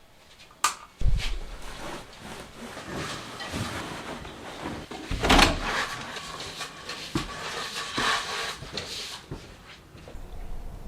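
Workshop handling sounds: a sharp click, then a knock about a second in, followed by irregular scraping, rustling and tapping of parts, loudest about halfway through.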